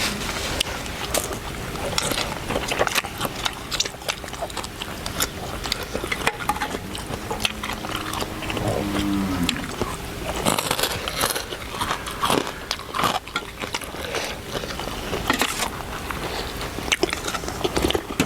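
Close-up eating sounds: irregular chewing and crunchy bites.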